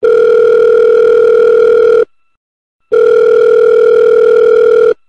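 Telephone ringback tone, the ringing a caller hears while the call goes unanswered: two long steady tones of about two seconds each, a short pause between them.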